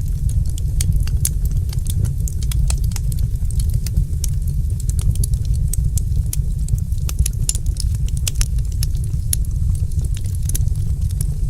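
Wood fire crackling in a fireplace: frequent quick pops and snaps, irregularly spaced, over a steady low rumble.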